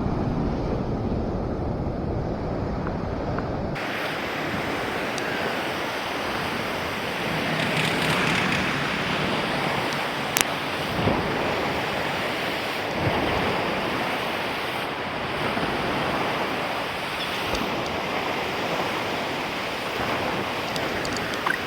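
A low rumble cuts off abruptly about four seconds in and gives way to the steady wash of sea surf, with wind buffeting the microphone.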